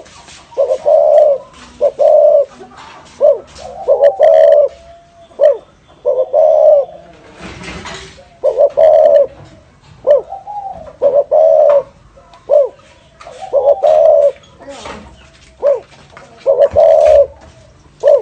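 Spotted dove (cu gáy) cooing over and over in the rolling 'thổ rền' style: phrases of low, loud coos with short gaps between them. A short burst of noise cuts in about halfway through.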